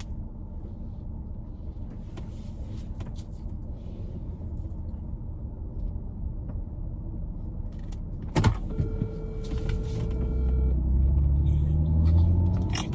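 Car interior rumble of a vehicle being driven, with a sharp click and then a steady electronic tone held for about two seconds past the middle. The engine grows louder near the end as it pulls away.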